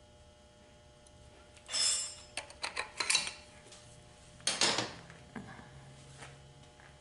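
Metal transmission parts clinking and scraping as they are handled and fitted: a short clatter about two seconds in, a quick run of sharp clicks, and another clatter near the middle.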